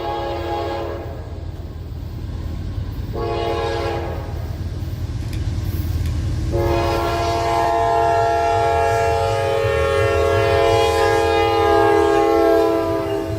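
Diesel freight locomotive's multi-chime air horn: a long blast ending about a second in, a short blast about three seconds in, then a long blast of about six seconds, the close of the long-long-short-long grade-crossing signal. A steady low rumble of the locomotive runs underneath.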